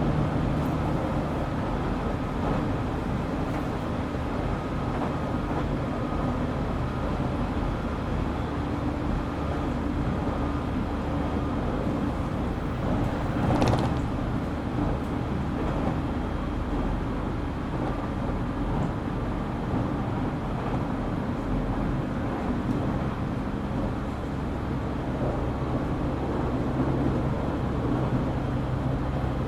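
JR Kyushu 817 series electric train running, heard from inside the car: a steady rumble of wheels on rail with a low, even motor hum. About 13 to 14 seconds in, a brief louder rush of noise.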